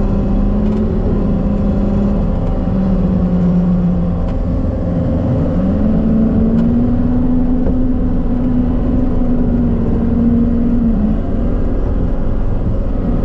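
John Deere 333G skid steer's diesel engine running, its pitch climbing as it revs up about five seconds in, holding there, and dropping back near the end.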